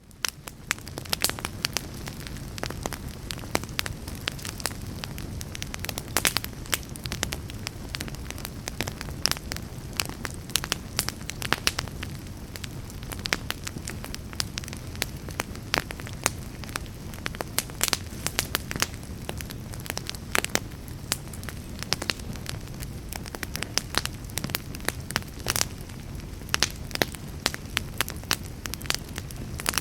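Wood fire crackling in a fireplace: frequent sharp pops and snaps over a steady low rumble of burning. The sound rises back in from a brief dropout at the very start.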